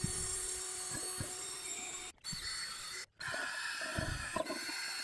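High-speed die grinder with a coarse surface-conditioning disc scouring the oxidized finish off an aluminum wheel. It gives a steady whine with rasping scrub noise and irregular knocks as the disc is worked around the wheel. The sound cuts out briefly twice.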